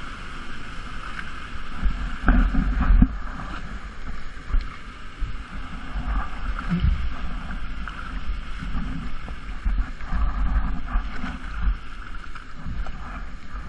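Waterfall pool water churning and splashing close to the microphone, with heavy low thumps of water buffeting it about two seconds in and again around ten seconds.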